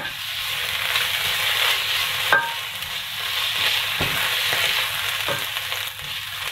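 Sliced onions and ginger-garlic paste sizzling steadily in oil in a nonstick pan while a wooden spatula stirs and scrapes through them, knocking sharply against the pan a few times. The paste is being fried off until its raw smell goes.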